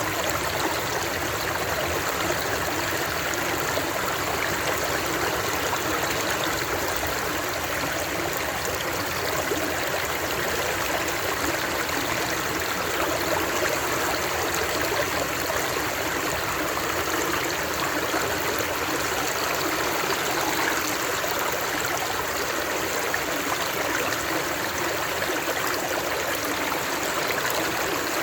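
Flowing water running steadily, an even rush that holds without change.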